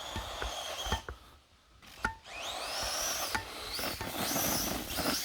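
Electric motor of a 1/10 Redcat Volcano RC truck on a Spektrum 4S system whining: a steady high whine, a brief drop-out about a second in, then several rising whines as it accelerates again and again.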